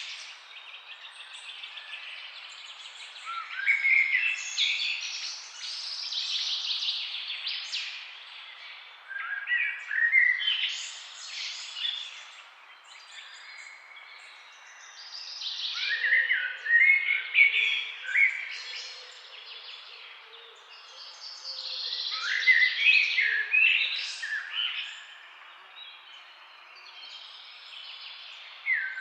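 Songbirds chirping and singing in the trees, in bouts of calls and trills every few seconds, over a faint steady background hiss.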